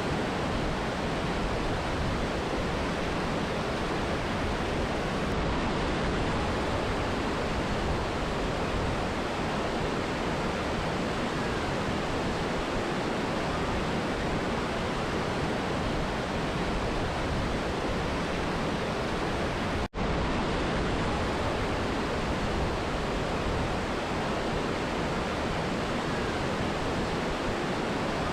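Steady rushing of a mountain river and waterfall, an even roar of water with no change in level. About twenty seconds in, the sound cuts out for a split second, as at an edit.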